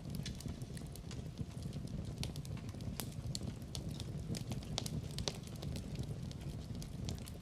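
Wood fire burning in a fireplace, a steady low rumble of flames with irregular sharp crackles and pops of burning logs.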